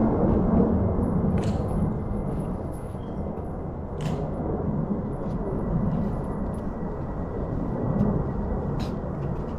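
Outdoor ambient noise: a steady low rumble with slow swells and a few faint clicks.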